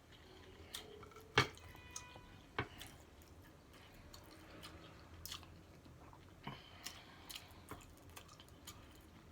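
A person chewing a taco: scattered soft, wet mouth clicks and smacks at irregular intervals, the sharpest about a second and a half in.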